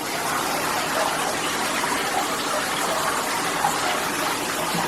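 Water spraying steadily from a plastic shower head advertised at 10.5 gpm and splashing into a filling bathtub, an even rushing hiss. The head is flowing at about 5 gallons per minute by the tester's estimate, roughly twice a standard 2.5 gpm head.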